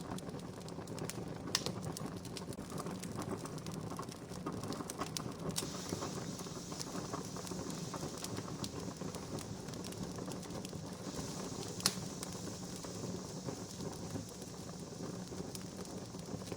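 Wood campfire crackling steadily with a dense patter of small snaps, and two sharper pops standing out, about a second and a half in and a louder one about twelve seconds in.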